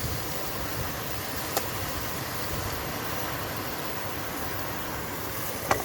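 Soto Stormbreaker pressurised stove burning with a steady hiss under a pan of sizzling steak and onions, with a single sharp click about a second and a half in.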